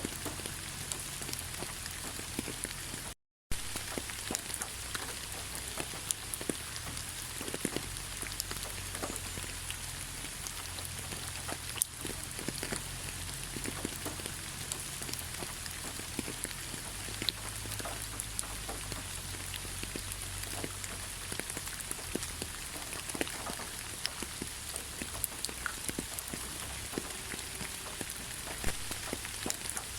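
Steady rain falling in a pine forest: an even hiss with many individual drops ticking through it. The sound cuts out completely for a fraction of a second about three seconds in.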